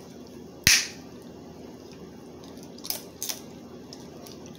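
Crab leg shells being cracked while eating: one sharp loud crack a little under a second in, then two smaller cracks about three seconds in.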